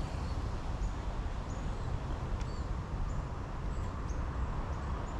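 A small bird chirping over and over in short, high notes, over a low steady rumble.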